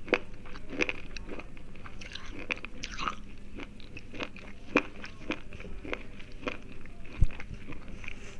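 Slate pencils being bitten and chewed close to the microphone: a steady run of sharp, dry crunches at irregular intervals, with one louder low thump about seven seconds in.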